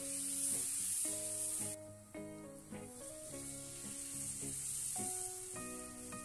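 Butter and minced garlic sizzling in a nonstick frying pan, stirred with a spatula. The sizzle drops away suddenly about two seconds in and comes back more softly as chicken broth is poured into the hot butter. Background music plays throughout.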